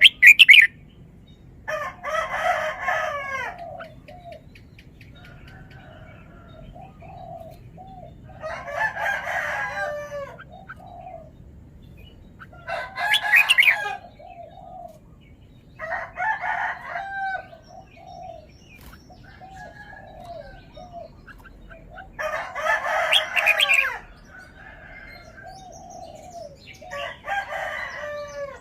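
Birds calling: six loud phrases of rapid curving notes, each about one and a half to two seconds long and spaced every four to six seconds, with a sharp loud call at the very start and softer short notes in between.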